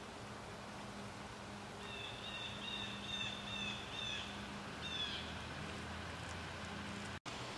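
A bird calling over steady outdoor hiss: a quick run of about five short, high, evenly spaced notes, about two and a half a second, then one more note a second later. A faint steady low hum runs underneath.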